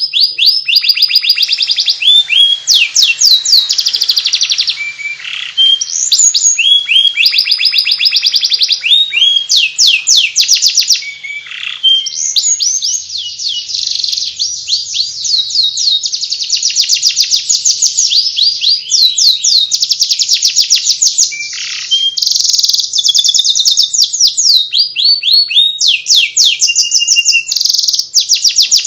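Domestic canary singing without pause: long rapid trills and fast runs of repeated sweeping notes, the 'ngeriwik' warbling song used as a model to teach young canaries.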